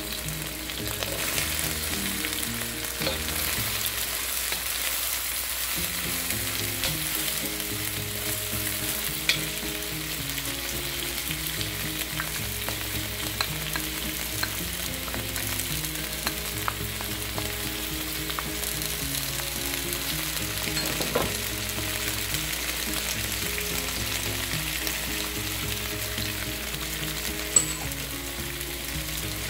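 Chopped garlic and then green beans sizzling and frying in hot oil in a wok as they are stirred, a steady hiss, with a few sharp clicks of a utensil against the wok, the loudest near the end.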